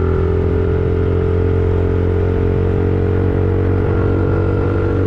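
Small 50cc dirt bike engine running steadily under way, holding an even pitch.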